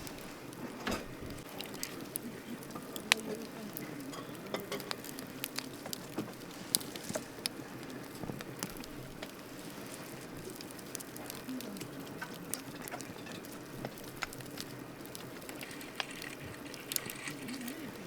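Campfire burning: wood crackling with irregular sharp pops, the loudest about three seconds in, over a steady low rustle of the flames.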